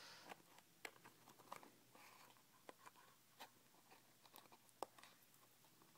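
Faint, irregular clicks and scratches of a fingernail picking at strong tape on a small box.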